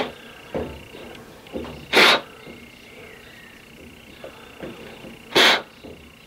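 Three short, sharp puffs of breath, about two and three seconds apart, blown through a small water-line fitting to test whether it is clogged.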